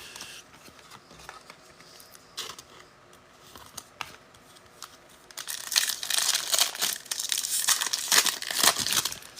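Plastic wrapper of a pack of football trading cards being crinkled and torn open. A few light clicks come first, then about four seconds of dense crinkling and tearing in the second half.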